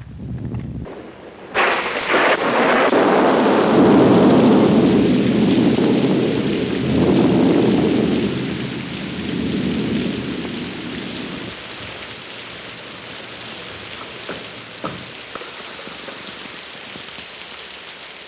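A clap of thunder breaks about a second and a half in and rolls on in two swells, fading out over about ten seconds. Steady rain runs underneath and carries on alone after it.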